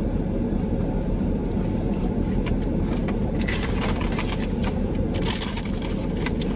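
Steady low rumble of a car running, heard from inside the cabin, with a patch of crunchy crackling from eating around the middle.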